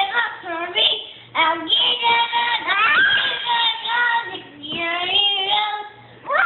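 A child singing a tune in a high voice, in a few phrases with short breaks, holding and bending some notes.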